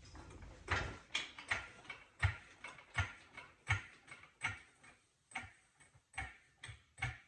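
A car jack being pumped to raise the minivan: a sharp clack with a low thud on each stroke of the handle, about one every 0.7 seconds.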